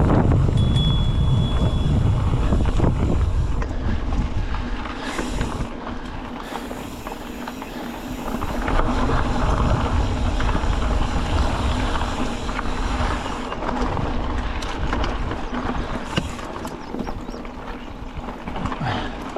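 Wind buffeting a GoPro's microphone outdoors, a gusting rumble that is strongest at the start and swells again about eight seconds in, with scattered small ticks and knocks.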